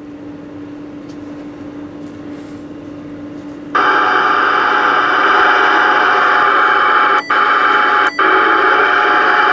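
Static hissing from a President Lincoln II+ ten-meter radio's speaker on AM receive: soft at first, then jumping loud about four seconds in and cutting out briefly twice near the end.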